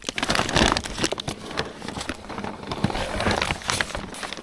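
Continuous crinkling, rustling and scraping of a person crawling through a crawl space, with many quick crackles.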